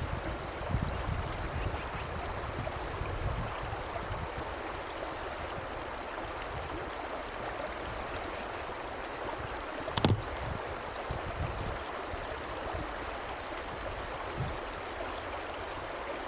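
Stream water rushing and splashing steadily over rocks, with a single brief sharp sound about ten seconds in.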